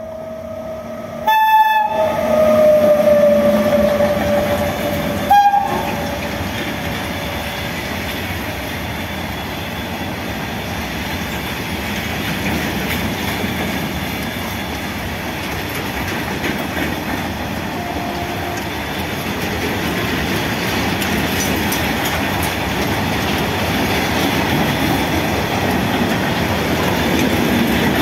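WAG9 electric locomotive's horn sounds for about three seconds near the start, its pitch sagging slightly, then gives a short second toot. After that comes the steady rolling clatter of the loaded covered goods wagons running past, which grows louder near the end.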